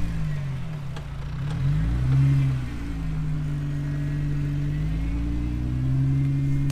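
Jeep Wrangler TJ's 4.0 straight-six engine crawling at low revs off-road. The throttle is blipped up and down in the first couple of seconds, then the engine holds a steady low drone.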